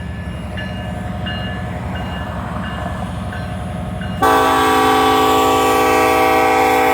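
Diesel locomotive engines rumbling while the locomotive bell rings steadily, one strike about every two-thirds of a second. About four seconds in, the locomotive's air horn starts a long, loud blast: the train is sounding its horn as it begins moving off from a stop.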